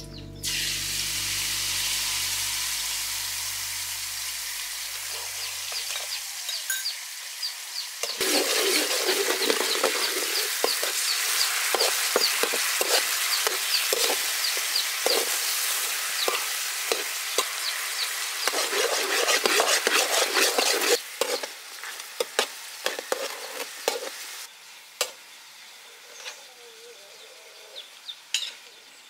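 Sauce sizzling loudly as it hits a hot wok, then a spatula stirring and scraping pork ribs through the bubbling sauce, with many quick scrapes and clicks against the wok. The sizzle drops away in the last few seconds, leaving a few spatula taps.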